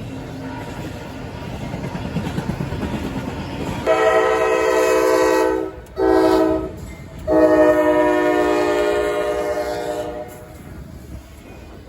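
Train rumbling along the track, then the locomotive's chime horn sounds a long blast, a short blast and a long blast, fading into a lower rumble after the horn stops.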